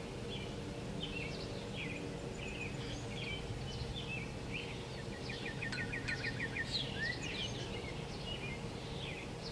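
Small birds singing and chirping, with a quick trill of about eight repeated notes roughly five seconds in, over a faint steady low hum of outdoor ambience.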